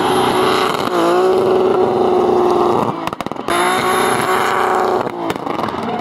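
BMW E30 drift car's engine held at high revs while it spins its rear tyres in a smoky burnout. Its pitch stays steady, then drops briefly about three seconds in with a few sharp pops before it comes back up, with more pops a little after five seconds.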